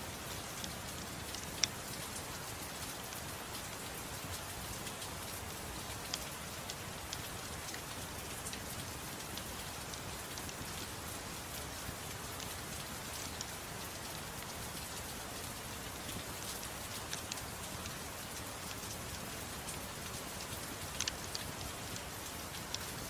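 Soft steady rain, an even hiss, with a few scattered sharp crackles from a fireplace.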